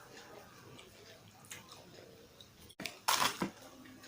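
Close-up chewing and wet mouth sounds of someone eating. After a brief cut-out in the sound, a loud squelchy chew or bite comes about three seconds in.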